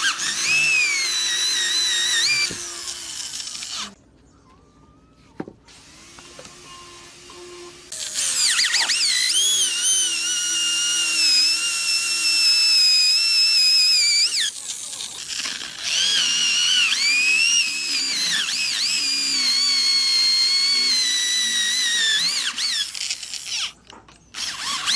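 Power drill running in long spells with a high whine whose pitch dips and recovers. It stops for a few seconds about four seconds in, then runs again.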